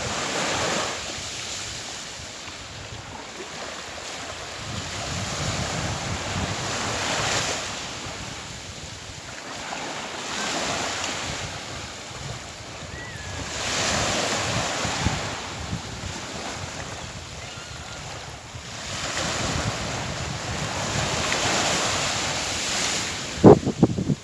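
Sea waves breaking and washing ashore, swelling and fading every three to four seconds, with wind buffeting the microphone. A brief loud bump near the end.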